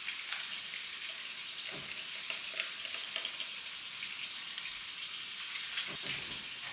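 Kitchen tap running in a steady hiss, with a few faint light knocks over it.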